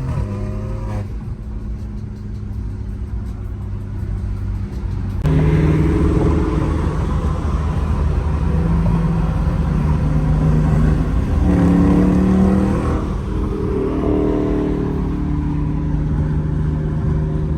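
A car engine running steadily, then, about five seconds in, suddenly louder as it is revved, its pitch climbing and dropping several times.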